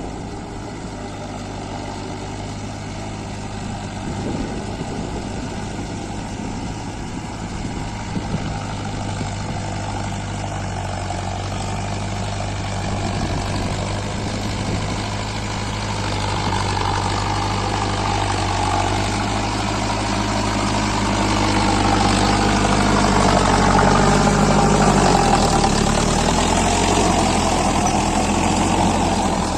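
Diesel engine of a Mahindra Arjun Novo 605 4WD tractor running continuously. It grows louder through the second half, then its pitch dips and it eases off slightly near the end.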